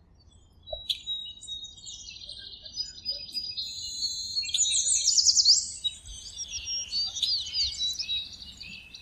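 Several songbirds chirping and trilling together in high-pitched, overlapping calls, starting about a second in and busiest around the middle.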